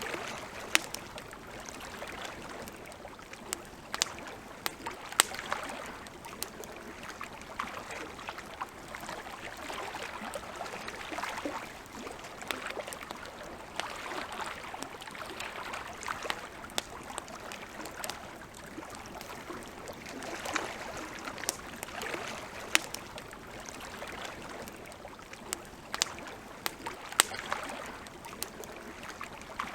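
Campfire crackling, with sharp irregular pops over a steady hiss, and a soft wash of lake water that swells and fades every few seconds underneath.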